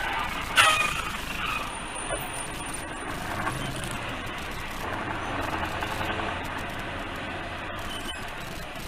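Steady vehicle and road noise, with a sharp, loud sound about half a second in.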